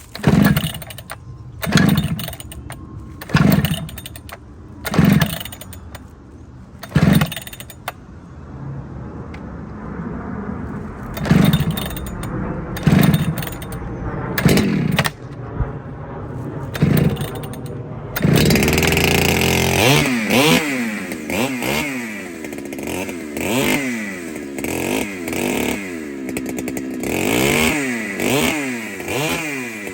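Ported Husqvarna 395 two-stroke chainsaw being blipped in short throttle bursts about every second and a half. From about 18 seconds in it runs continuously at high revs, the pitch repeatedly dipping and recovering, as under load in a cut.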